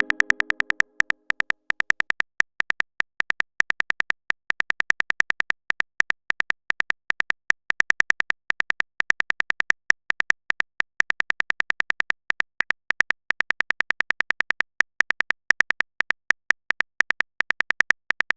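Rapid train of short, high electronic beeps, several a second in uneven runs, like a typing sound effect for text being typed out letter by letter.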